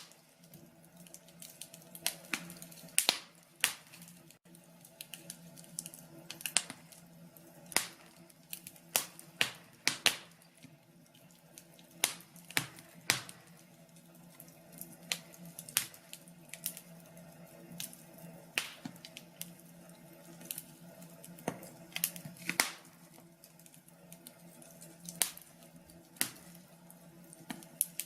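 Wood fire crackling: irregular sharp pops and snaps, about one or two a second, over a faint steady hum.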